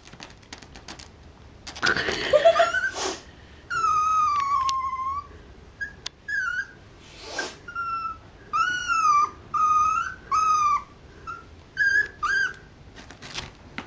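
Small dog whimpering: a string of high-pitched whines, one long falling whine about four seconds in, then many short rising-and-falling whines in quick succession.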